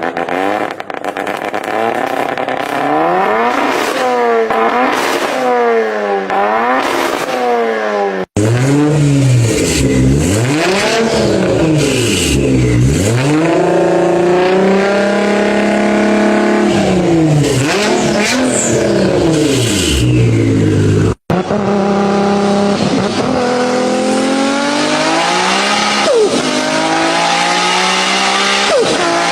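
Car engine and exhaust revving, the pitch rising and falling again and again in quick blips. The sound breaks off abruptly twice between clips, and in the last part the revs climb steadily as under acceleration.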